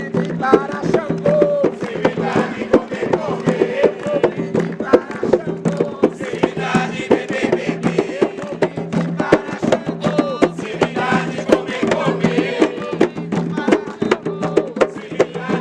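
Voices singing a chant over dense, fast rhythmic percussion: Afro-Brazilian religious ritual music.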